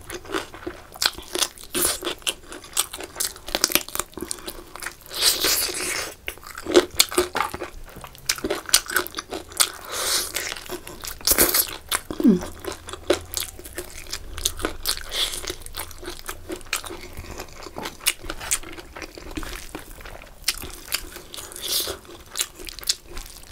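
Close-miked eating: biting and chewing chicken curry leg pieces, with many short crunches and chewing sounds in quick, irregular succession.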